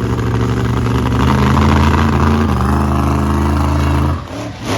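Monster truck engine running hard at a steady high pitch. The pitch steps down about halfway, and the engine cuts off suddenly near the end.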